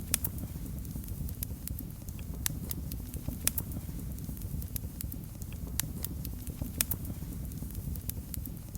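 Fire in a fireplace crackling: irregular sharp pops and snaps over a steady low rumble of flames.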